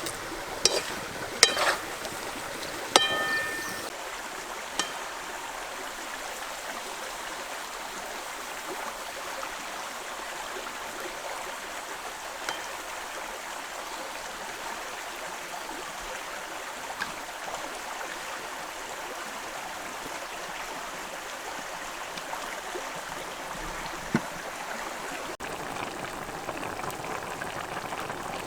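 Steady watery hiss, with a few sharp metallic clinks in the first three seconds and an occasional faint tick later.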